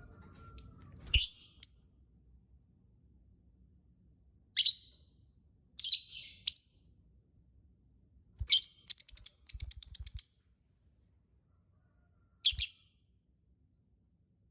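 Lovebird calling in short, shrill, high-pitched shrieks spaced a few seconds apart, with a rapid chattering run in the middle.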